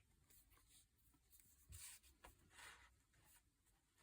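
Near silence, with a few faint rustles of paper being handled: once about two seconds in, a small tick, and again shortly after.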